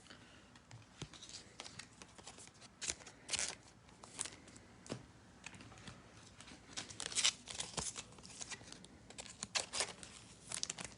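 Faint crinkling and tearing of a trading-card pack's foil wrapper, with cards being handled, in scattered short rustles and clicks.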